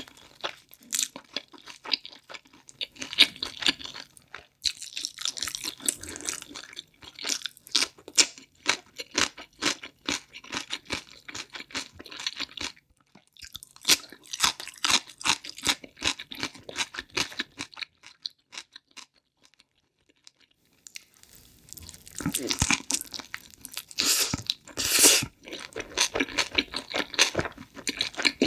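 Close-miked chewing and crunching of pizza crust with shrimp and chicken topping, and of a crisp cucumber pickle slice: bouts of quick wet crunches. The chewing stops for a few seconds past the middle, then resumes with louder crunchy bites.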